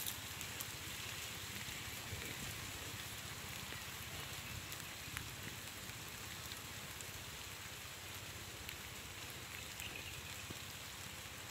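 Steady rain falling on the pond and the bankside brush: an even hiss with scattered sharp ticks of single drops.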